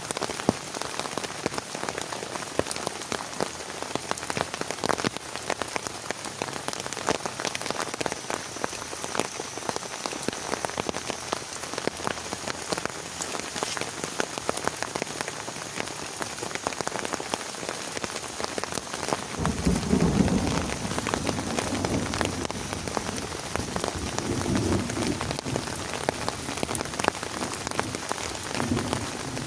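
Heavy rain falling steadily, a dense patter of many drops. About two-thirds of the way through, a low rumble comes and goes over the rain.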